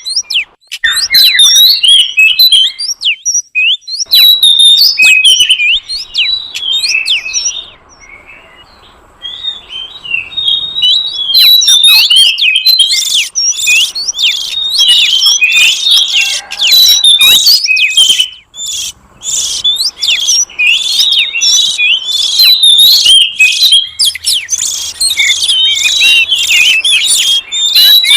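Oriental magpie-robin singing: a dense, rapid run of varied chirps and gliding whistles, with a brief lull about eight seconds in.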